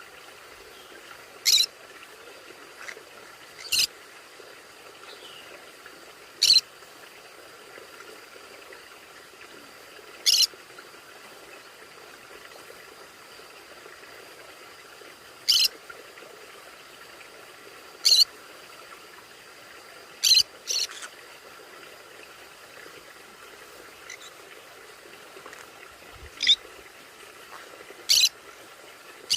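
Conure parrot giving short, sharp high-pitched calls, one every two to five seconds, with a faint steady hum underneath.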